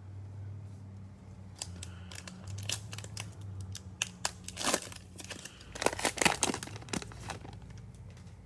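The cellophane wrapper of a Mosaic football cello card pack crinkling and tearing as it is opened: a string of sharp crackles, loudest about five to seven seconds in.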